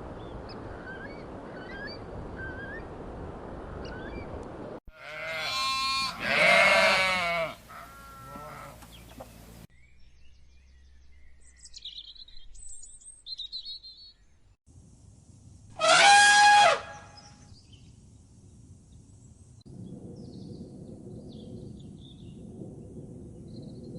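Bleating farm animals: a run of loud bleats about five to eight seconds in and one loud rising bleat about sixteen seconds in, with small birds chirping faintly in the quieter stretches between.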